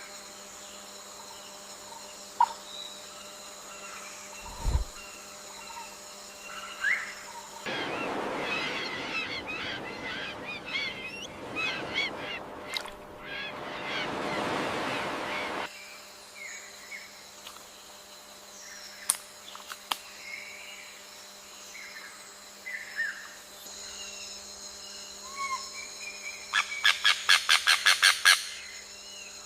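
Birds calling, with scattered short calls and a noisy stretch in the middle. Near the end comes a quick run of about a dozen loud, evenly spaced calls.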